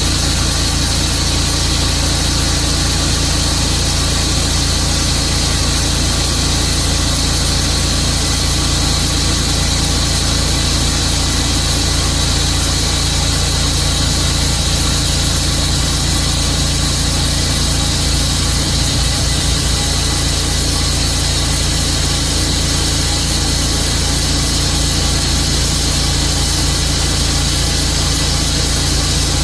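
Tru-Cut sawmill running steadily under power, its blade sawing through a silver maple log.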